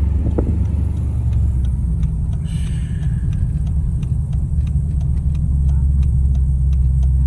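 Car engine and road noise heard from inside the cabin while driving, a steady low rumble. Faint, regular light ticks sound over it from about two seconds in.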